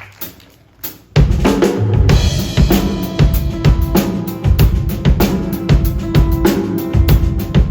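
Rock band playing live: after about a second of near-quiet, the full band crashes in with drum kit, bass and sustained guitar or keyboard tones, the kick and snare keeping a steady beat.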